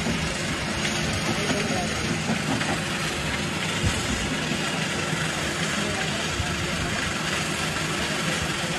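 Jaw crusher running, a steady machine drone under the continuous grinding clatter of rock being crushed, with a sharper knock about four seconds in.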